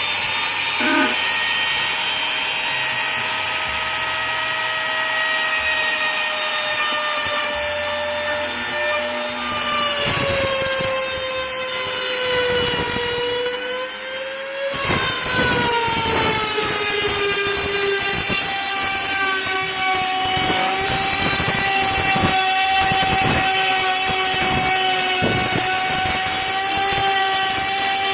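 Handheld electric wood router (trimmer) running at high speed with a steady high whine, cutting a circular speaker hole in a wooden panel. Its pitch sags and wavers under load as the bit bites into the wood, with a rough grinding texture from the cut, a short dip about fourteen seconds in.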